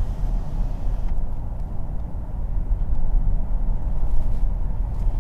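Cabin noise of a Mercedes-Benz GLS 400d SUV driving at about 50 km/h: a low, steady rumble of road, tyre and engine noise. A faint higher hiss stops about a second in.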